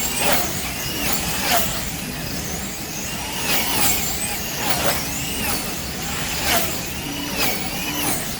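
Wing slot cars racing round the track: their small electric motors whine, the pitch gliding up and down over and over as the cars speed up and slow down, with a swell in loudness each time cars pass close by.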